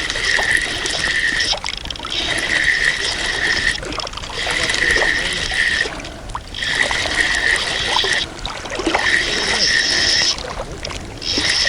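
Spinning reel cranked in spells of a second or so with short pauses, a steady whirring of the reel's gears, while a hooked fish is brought in on a feeder rod.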